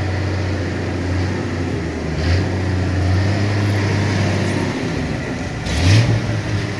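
1966 Ford F100 pickup's engine running steadily as the truck pulls up an incline, with the engine note rising and getting louder near the end.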